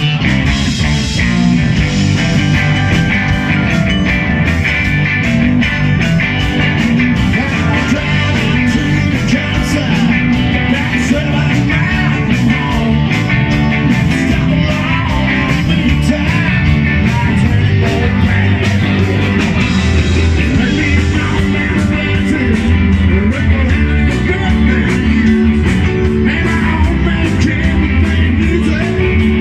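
Rock band playing live: guitar, bass and drums going at a steady beat.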